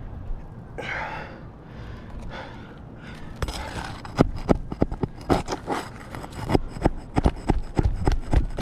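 Scraping, then, from about three seconds in, a quick irregular run of sharp taps and clicks: a shingle being worked loose from its nails on a roof with a shingle snake removal tool.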